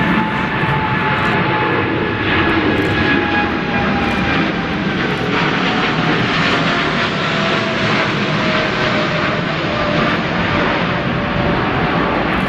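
Jet airliner's engines at full roar, with a thin whine sliding slowly down in pitch as the aircraft passes.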